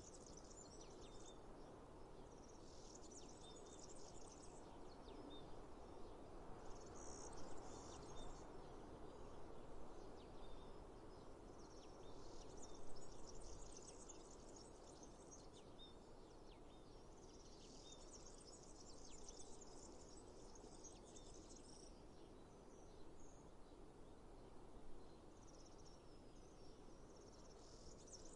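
Faint natural outdoor ambience: a steady low rush, with high chirping trills of insects and birds coming and going in bursts of one to three seconds.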